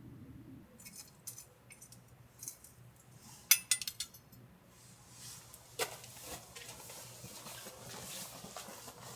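Kitchen utensils and dishes clinking and knocking: a run of light clinks, the loudest about three and a half seconds in, one more sharp knock near six seconds, then a softer steady hiss.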